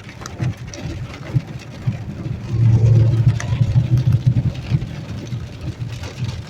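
Inside a car driving through a hailstorm: engine and road noise with many irregular sharp ticks of hailstones hitting the car. The low running sound swells louder about two and a half seconds in.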